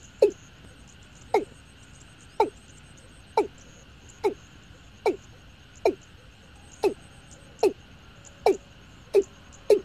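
Watercock (Gallicrex cinerea) calling: a series of short hollow notes, each dropping in pitch, repeated about once a second and coming a little faster near the end.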